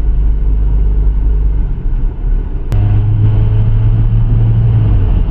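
Hyundai Tucson driving, heard from inside the cabin: a steady low rumble of engine and road noise. About halfway through there is a sharp click, and a steady low drone sets in for a couple of seconds.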